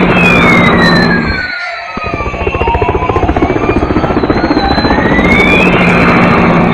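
Electronic toy vehicle sound effect: a fast low chopping pulse with a siren-like tone that slides down over about two and a half seconds, then rises back up. The chopping drops out briefly about a second and a half in.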